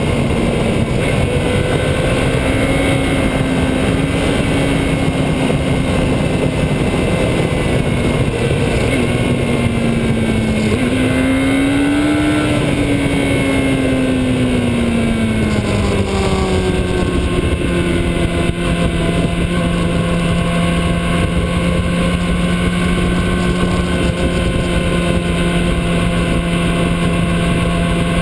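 Motorcycle engine running under way, over a constant dense rush of noise. Its pitch climbs about eleven seconds in, drops back over the next few seconds, and holds steady at a lower note from about sixteen seconds on.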